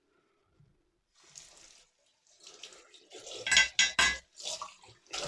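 Water from a tap splashing into a sink in several bursts, with a few sharp clicks of metal against the basin: a straight razor being rinsed between shaving passes.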